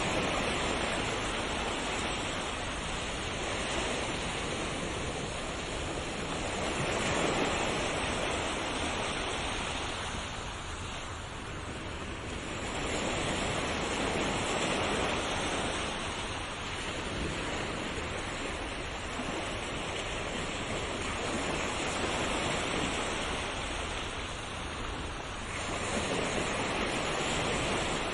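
Ocean waves breaking and washing on a shore, a continuous rushing surf that swells and eases in slow surges every few seconds.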